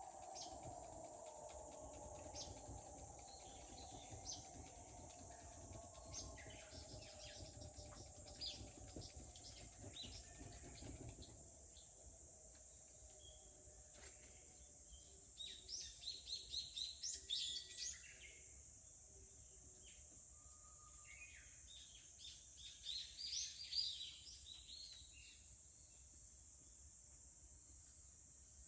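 Two bursts of rapid bird song, quick repeated notes, over a steady high insect drone. Light crackling of a wood fire runs through the first half.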